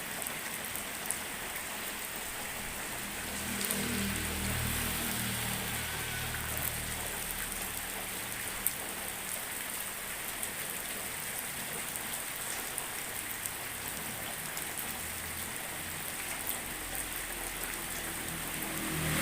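Drizzling rain falling steadily, an even hiss with scattered small drip ticks. A low rumble rises about four seconds in and fades away over the next few seconds.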